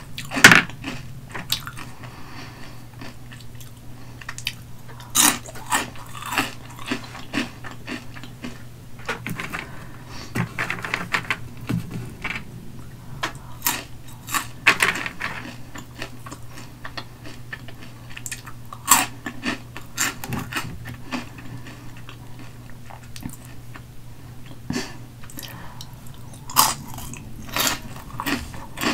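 Close-miked chewing of crunchy Hot Cheetos, with sharp, irregular crunches every few seconds between softer chewing. A faint steady low hum runs underneath.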